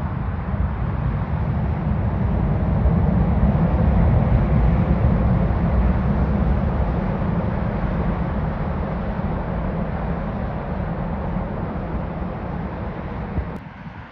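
Jet airliner's engines rumbling as it passes, swelling to a peak a few seconds in and then slowly fading, until the sound cuts off abruptly near the end.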